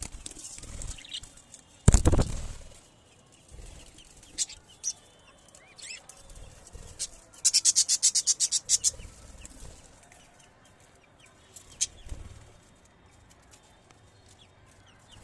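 Pet budgerigars: a brief rapid flurry of wing-flapping about halfway through, with scattered short chirps. There is one sharp knock about two seconds in.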